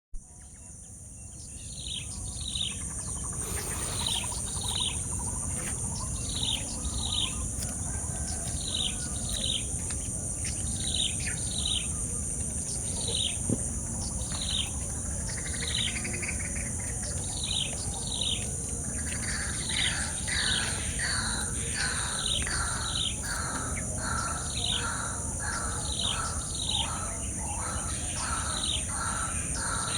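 Birds calling in a tropical forest: repeated short, falling whistled notes, often in pairs, joined after about 19 seconds by a second, lower and faster series of calls. A steady high-pitched insect drone runs underneath, with a low background rumble. The sound fades in over the first two seconds.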